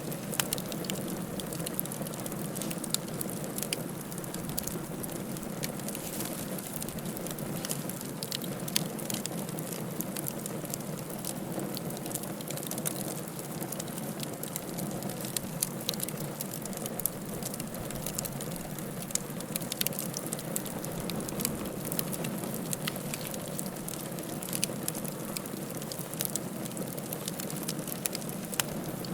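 Wood fire burning in a fireplace: a steady low rushing of the flames with frequent irregular crackles and pops.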